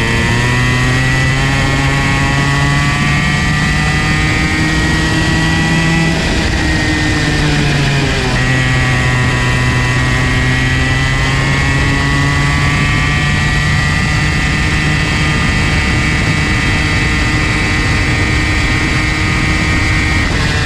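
Comer C50 two-stroke go-kart engine running hard, its pitch climbing steadily, dropping briefly about six to eight seconds in, then climbing again, with another drop near the end.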